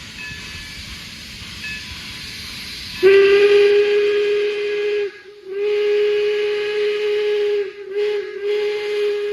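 Steam locomotive No. 26's whistle blowing a steady chime in two long blasts, one short and a final long one: the grade-crossing signal. Before the whistle, a low rumble of the train.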